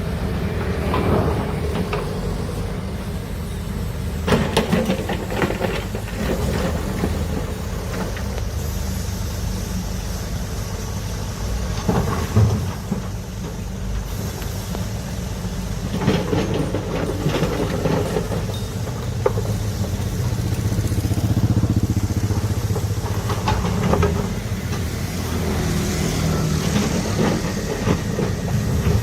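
Heavy excavator engine running steadily under load, with scattered sharp clanks and knocks from the machine at work.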